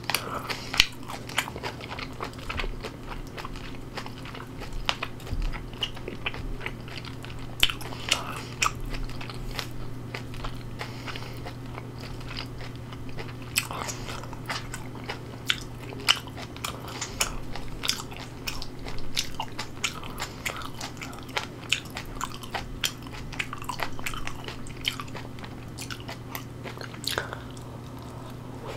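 Close-miked chewing of fermented skate, with many small crisp crunches throughout, over a steady low hum.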